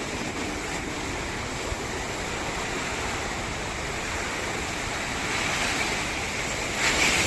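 Arabian Sea surf washing onto a sandy beach: a steady rush of wave noise that swells near the end as a wave breaks.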